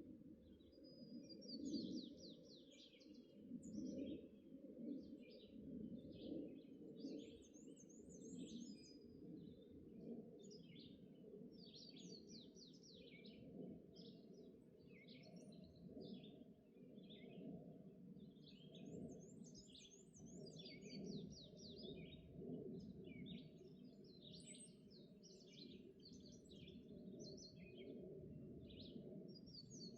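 Faint dawn chorus of several songbirds singing one short phrase after another. One bird repeats a rapid, high trill about every ten seconds. A steady low rumble runs underneath.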